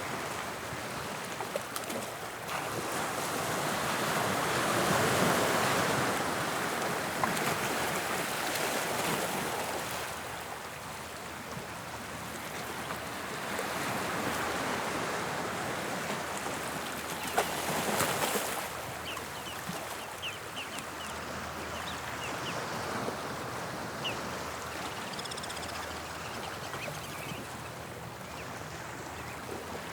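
Waves of the English Channel breaking and washing up the shore, swelling to louder surges about five seconds in and again around eighteen seconds. A few faint, short, high chirps are heard in the second half.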